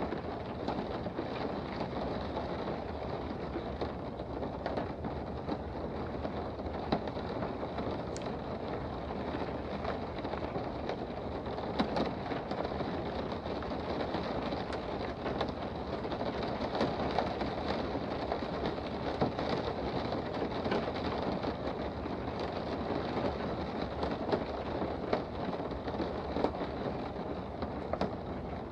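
Steady rain heard from indoors: an even hiss with scattered sharper ticks of single drops.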